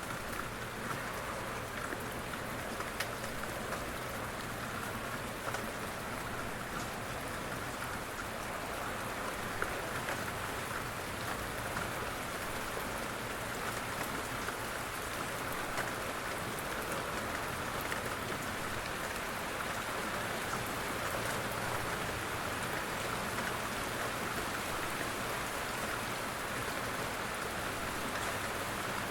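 Steady gentle rain falling, an even hiss with scattered individual drop taps.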